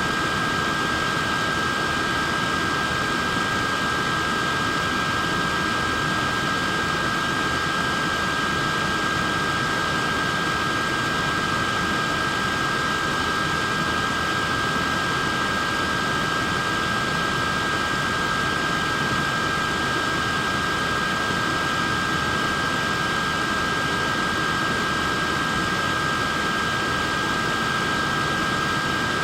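Small electric neck fan running steadily: an even whooshing of air with a constant high whine from the motor and blades, unchanging throughout.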